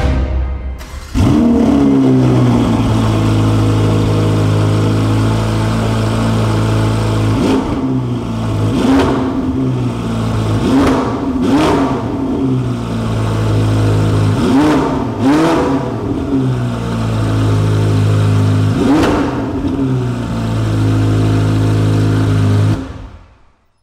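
Ferrari 488 Pista's twin-turbo V8 starting about a second in, flaring up and settling to idle, then blipped in short revs several times before fading out near the end.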